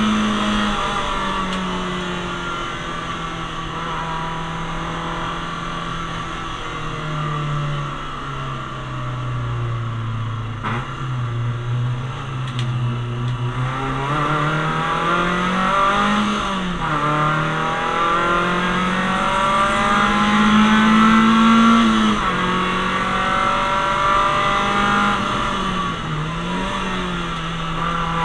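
Citroen Saxo VTS engine under load, heard from inside the cabin on a track lap. The revs sink to a low point about ten seconds in, then climb again, with quick dips and rises at gear changes.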